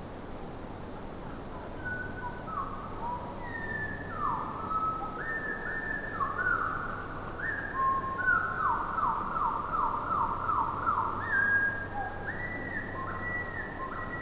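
Birdsong played back four times slower, so the whistled notes sound low and drawn out. Long gliding notes come in about two seconds in and grow busier, with a quick run of repeated downward-sweeping notes past the middle.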